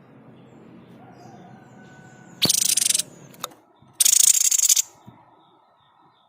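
Tepus dada putih babbler (the 'sniper' bird) giving its harsh rattling 'shot' call twice, each burst about half a second to nearly a second long and about a second apart, with a sharp click between them.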